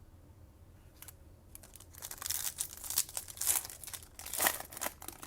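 Foil wrapper of a trading card pack crinkling and tearing as it is opened, starting about a second in with a dense run of crackles.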